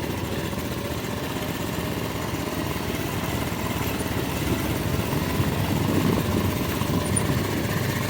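Motorcycle engine running steadily at low revs during the ride, with a fluttering rumble that grows a little louder about halfway through.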